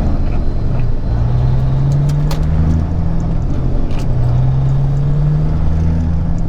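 Peterbilt 379 semi truck's diesel engine pulling away, its pitch climbing as it accelerates through a gear and dropping back at a shift, twice; a few faint clicks and rattles over it.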